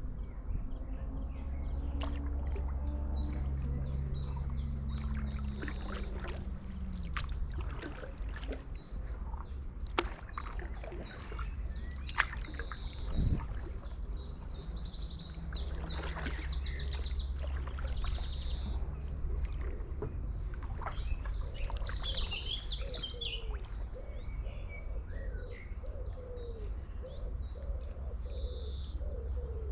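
Small birds chirping and singing, many short calls and trills coming and going, over a steady low rumble.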